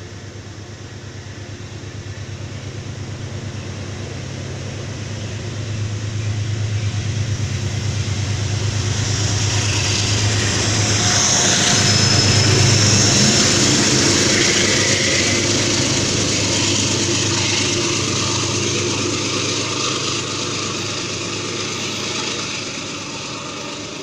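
Metro-North push-pull passenger train pulling out of a station: the wheels run over the rails as the coaches go by, and the rear locomotive's engine hum builds to its loudest as it passes about halfway through, then fades as the train leaves.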